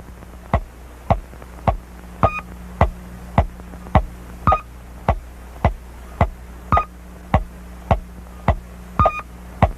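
Electronic sci-fi sound effect: sharp, evenly spaced ticks a bit under two a second, with a short high beep on every fourth tick, over a steady low hum.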